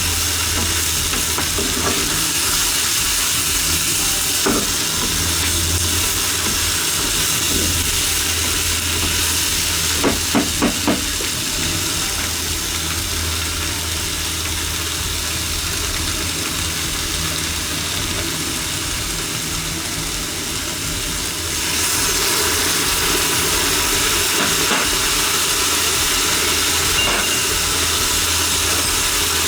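Long green onion and thick deep-fried tofu sizzling as they stir-fry in a pan. There is a quick run of clicks about ten seconds in, and the sizzle grows louder a little after twenty seconds.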